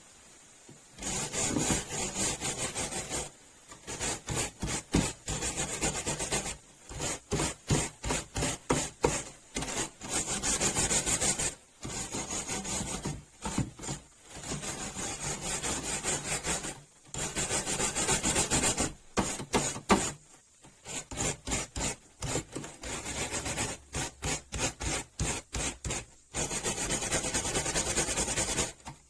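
Rust being worked off a wrench by hand: quick back-and-forth rasping strokes, in bouts of a few seconds with short pauses between them.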